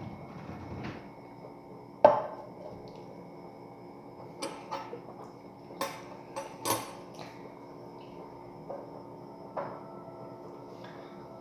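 Kitchen clatter of dishes and utensils being handled: a sharp knock about two seconds in, then a scatter of lighter clicks and clinks, over a faint steady hum.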